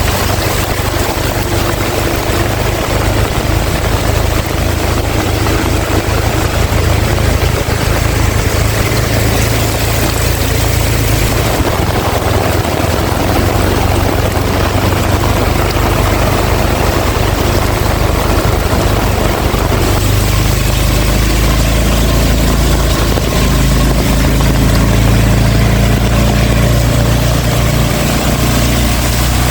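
Heavy rain pouring steadily, with strong wind rumbling on the microphone. About two-thirds of the way through, a steady low droning hum joins in.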